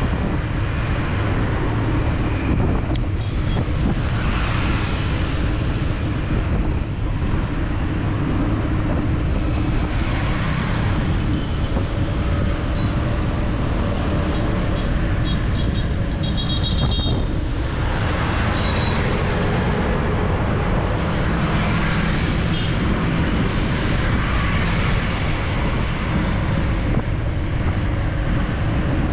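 City street traffic heard from a moving bicycle: a steady wash of passing motor vehicles. A horn beeps in a quick run of short toots a little past halfway, with one or two more just after.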